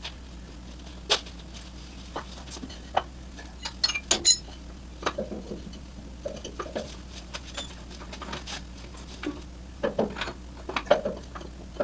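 Irregular clicks, taps and knocks of hand work on the engine and its motor mounts, over a steady low hum.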